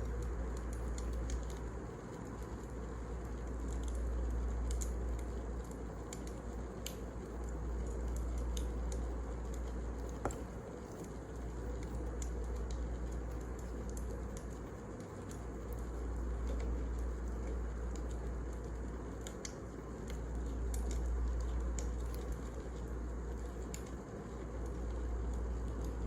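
Wood fire crackling, with scattered sharp pops over a low rumble that swells and fades every few seconds; one louder pop about ten seconds in.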